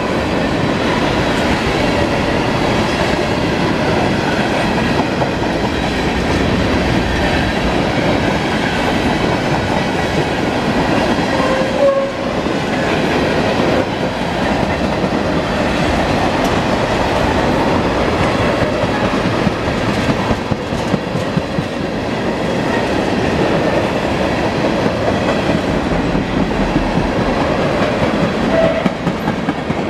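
Freight train of tank cars rolling past at close range: a steady rumble with the wheels clicking over the rail throughout.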